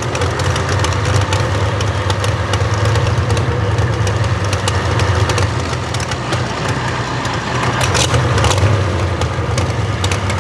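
A pulling truck's engine idling steadily with a deep hum, with scattered sharp ticks over it.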